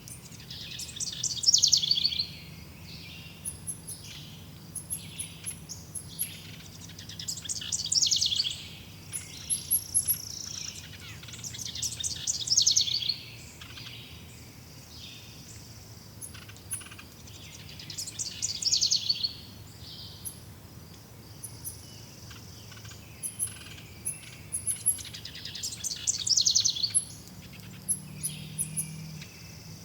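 Forest songbirds singing: one bird repeats a loud trilled song that falls in pitch, about every five to six seconds, over many short, thin, high chirps from other birds.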